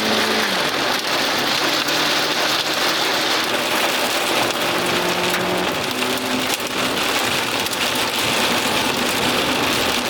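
Heavy rain pelting a moving car, a dense steady patter with many small hits, under the low hum of the car's engine, whose pitch drops about half a second in and rises again near six seconds.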